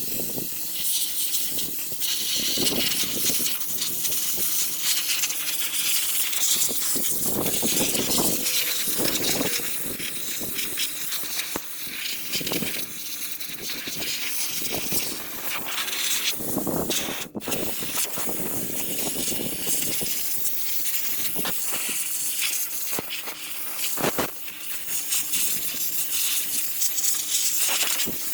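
Compressed-air hiss from an air tool working on a rusty truck frame, rising and easing off in spells over a faint steady hum.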